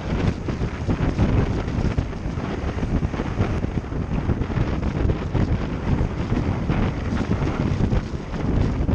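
Wind buffeting the microphone of a camera on a moving motorcycle, a steady rushing roar with the bike's running and road noise mixed in beneath it.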